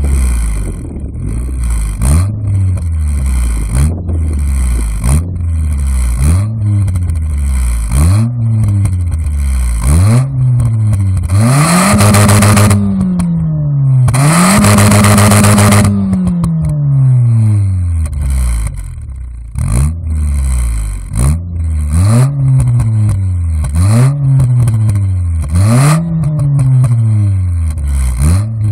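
Mitsubishi Lancer OZ Rally Edition revved through a Rhys Millen Racing (RMR) exhaust. It gives quick throttle blips about once a second, each rising and falling in pitch, with two longer revs held high around the middle.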